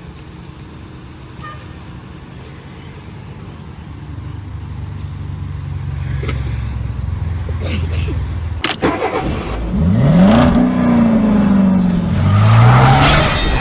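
A low car rumble that builds over several seconds. Then a sharp hit, and a car engine revving up and easing back down, rising again near the end.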